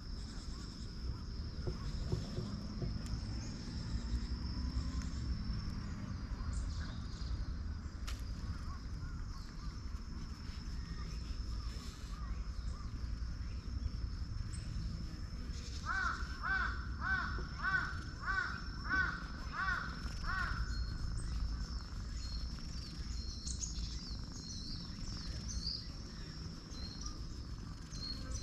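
A bird calling about eight times in quick succession, a little past halfway through. Underneath are a steady low rumble and a faint steady high-pitched tone.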